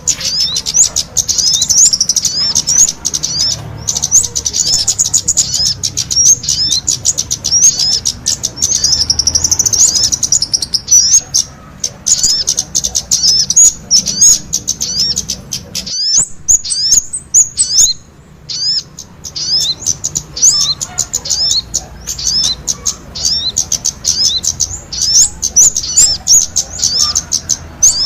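Kemade and sogon songbirds singing vigorously: a dense, rapid stream of high, quick chirping notes, broken by a short pause a little past the middle.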